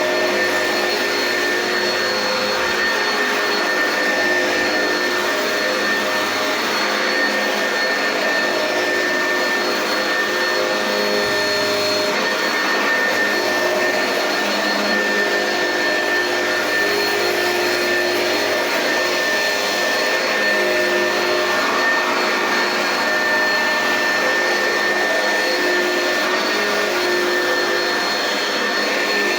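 Oreck XL commercial upright vacuum cleaner running steadily, its motor whine holding a constant pitch with a high tone over the airflow noise, with small shifts as it is pushed back and forth over carpet.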